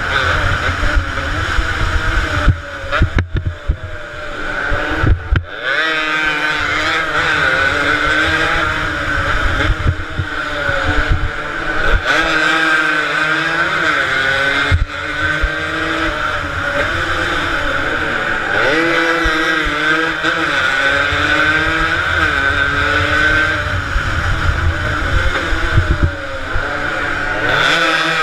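Several two-stroke motorcycle engines racing past, their pitch rising and falling as they rev and change gear, with a few sharp knocks a few seconds in. The uploader takes most of the bikes to be Yamaha RD 135s.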